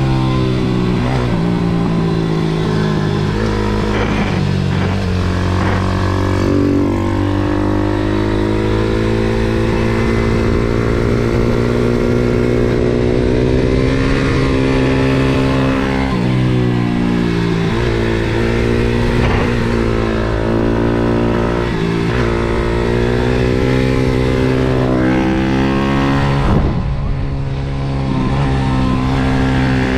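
MRF 140 SM pit bike's 140 cc four-stroke single-cylinder engine under riding load on track. Its pitch climbs repeatedly under throttle and drops on each gear change and downshift into the corners. The sound falls off briefly near the end as the throttle closes.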